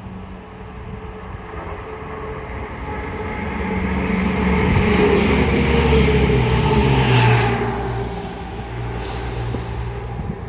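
Diesel train passing through the station: its engine and wheel noise build up, peak about halfway through and then fade away, with a brief high squeal near the loudest point.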